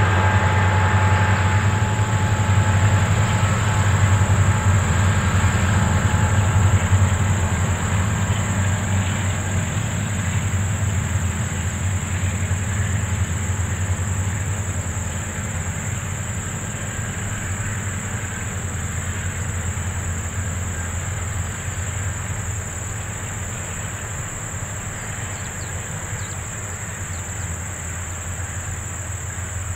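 Coal train passing: a steady low rumble and clatter of loaded coal wagons rolling on the rails. It slowly fades over the second half as the train draws away.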